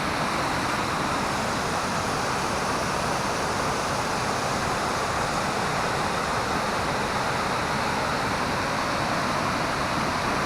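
Steady rush of a waterfall on a brook swollen with snowmelt: an even, unbroken hiss of falling water.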